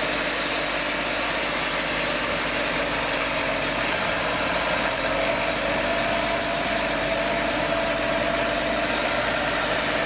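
Engine running steadily with a dense, even rush of mechanical noise, with no change in speed.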